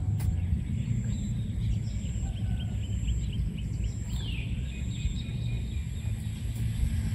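Field ambience: a steady low rumble, with a bird chirping in a quick run of short calls, then a single falling call about four seconds in. A faint steady high whine runs underneath.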